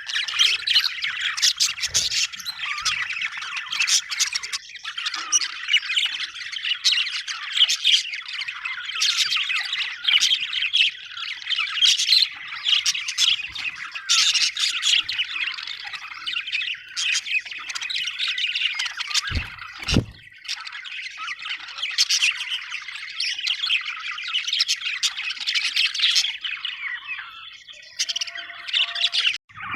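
Budgerigars chirping and chattering continuously, with a dense mix of quick warbles and squawks. Two brief low thumps come about two-thirds of the way in.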